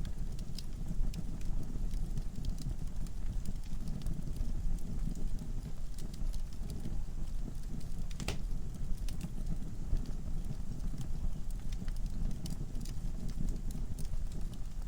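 Wood fire burning in a fireplace: a steady low rumble of flames with scattered crackles and pops from the logs, one louder pop about eight seconds in.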